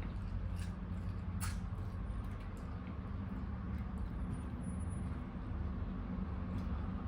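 Close-miked eating sounds: a few short wet clicks and smacks of chewing, the clearest about a second and a half in, over a steady low hum.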